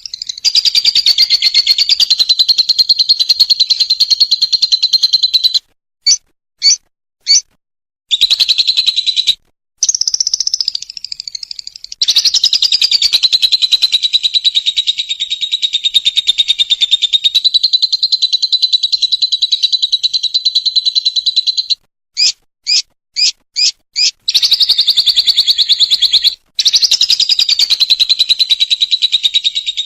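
Lovebird 'ngekek' chatter: long, rapid, rattling high-pitched trills held for several seconds at a time, with the pitch wavering. Between trills come sudden breaks with short separate chirps, three about six seconds in and five a little past two-thirds of the way.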